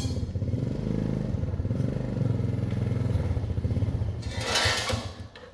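Motorcycle engine running steadily at low revs, with a brief hiss about four and a half seconds in; the engine sound dies away near the end.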